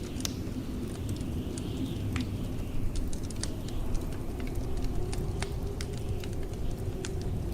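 Wood fire crackling with frequent sharp, irregular pops and snaps over the steady low rumble of blizzard wind outside.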